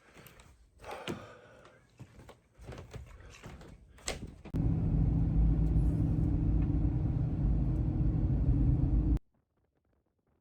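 A few faint knocks and rustles, then about four and a half seconds in a loud, steady low rumble with a hum in it starts and cuts off suddenly near the end.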